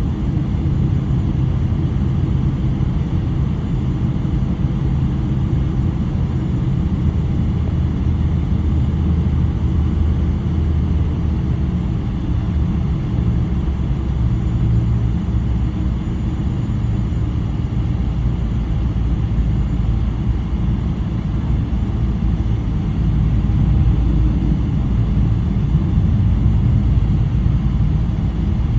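Cabin noise inside a Boeing 777-300 with Rolls-Royce Trent 800 engines: a steady, loud low rumble of engines and airflow, growing slightly louder about three-quarters of the way through.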